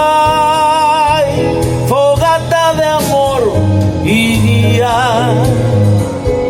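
A song with singing over band accompaniment with guitar: a long held sung note that wavers into vibrato and ends about a second in, followed by shorter sung phrases.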